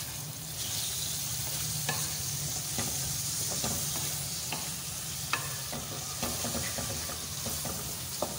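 Onions, chopped tomatoes and spices sizzling in hot oil in a metal pot as they are stirred with a spatula, with a steady hiss and scattered clicks and scrapes of the spatula against the pot, the sharpest about five seconds in and near the end. This is the masala being mixed and fried.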